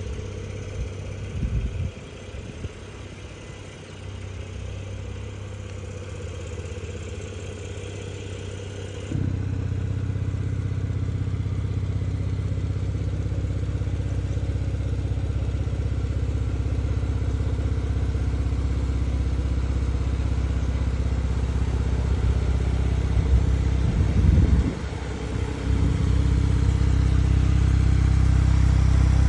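Porsche 911 992 GTS twin-turbo flat-six idling after a cold start, heard at the exhaust. The steady exhaust note grows suddenly louder and deeper about a third of the way in, then keeps rising slowly.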